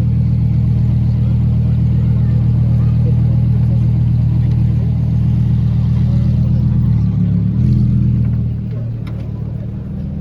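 A car engine running steadily at low revs, with a brief shift in pitch about seven and a half seconds in, then quieter near the end.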